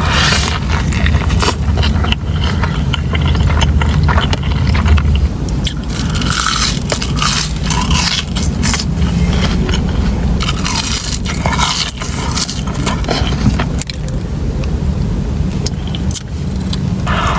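Close-miked eating of fast food: bites, chewing and crackly rustling of wrappers, in many short irregular bursts over a steady low rumble that is strongest for the first few seconds.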